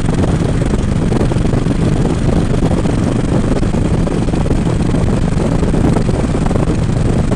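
Harley-Davidson Road King's V-twin engine running steadily at road speed, a constant low rumble mixed with wind noise on the microphone.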